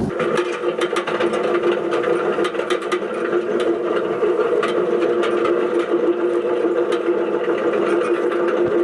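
Tractor and hay machinery running steadily: an even mechanical hum with a fast, continuous clatter of clicks and rattles over it.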